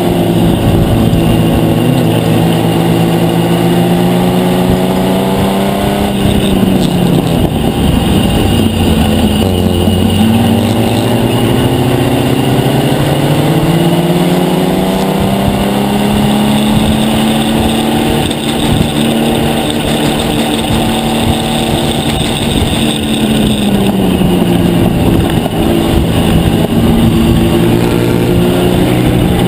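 GM 4.3-litre V6 in a race-modified 1976 Chevy LUV, heard from inside the stripped cabin, running hard. Its note drops away about six seconds in, climbs steadily back up over the next several seconds and holds, then dips again about three-quarters of the way through.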